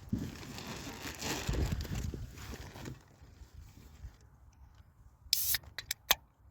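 Rustling and handling noise for about three seconds, then a brief hiss and a few sharp clicks near the end.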